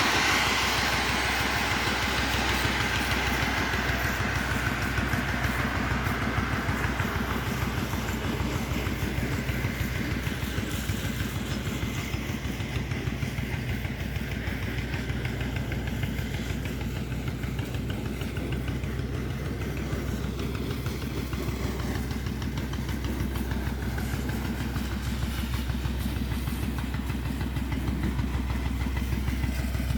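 Engine running steadily with an even low hum. A broad hiss over it in the first few seconds fades away, fitting sandblasting air.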